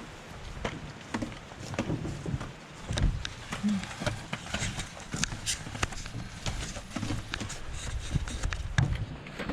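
Footsteps on a portage trail, walking under a carried canoe, with irregular clicks and knocks.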